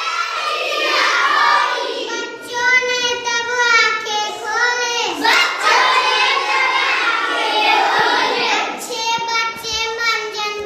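Children singing a Hindi children's poem.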